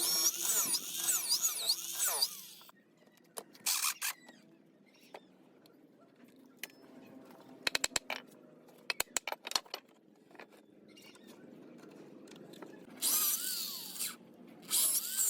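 Handheld power tool working palm wood in bursts: a loud spell at the start, a short one about four seconds in and two more near the end. In the quieter stretch between them comes a quick series of sharp taps.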